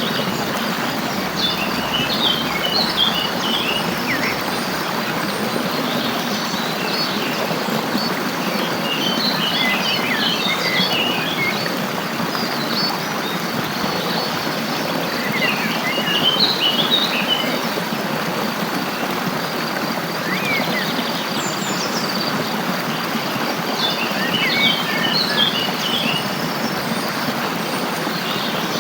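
Songbirds chirping in short clusters of quick high notes, four times, over the steady rush of a stream.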